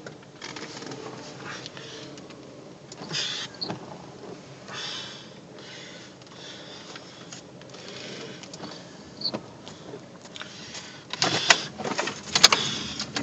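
Rain pattering on a car's roof and windshield, heard from inside the closed car. Irregular clicks and spatters get denser and louder near the end.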